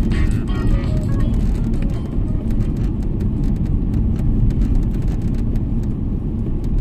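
Steady low road and engine noise of a car being driven. Music with guitar is faintly heard over the first second or so before fading under the rumble.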